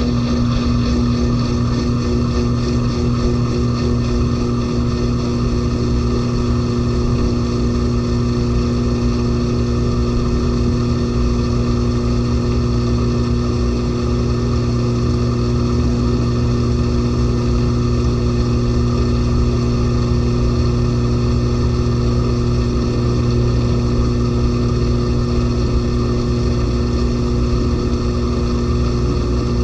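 LG 18 kg washing machine in its final spin, the heavily loaded drum spinning at a steady high speed with a constant motor hum and whine.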